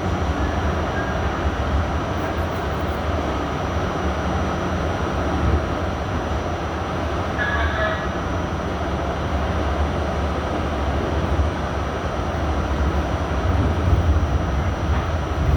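R68A subway car running, heard from inside the car: a steady rumble from the wheels and running gear on the track. A brief high squeal comes about halfway through.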